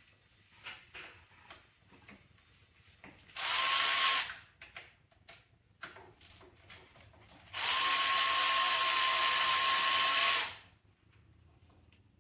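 Power drill running a Torx bit to undo E10 Torx bolts on an engine housing: a short run of about a second, then a longer steady run of about three seconds, each with a steady whine. Light clicks of tool handling come between the runs.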